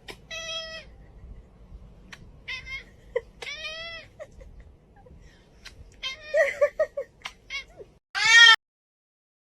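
A domestic cat meowing repeatedly: several drawn-out meows with a few short chirps between them, the loudest meow near the end, which cuts off suddenly.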